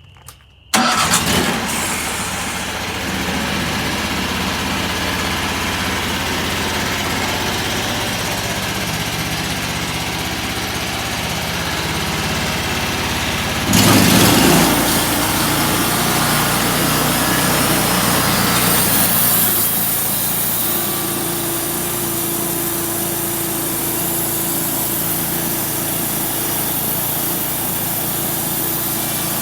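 A homemade sawmill's engine starts about a second in and runs steadily, with a brief louder surge around the middle. From about two-thirds of the way through, a higher hiss joins it as the blade cuts through a walnut log.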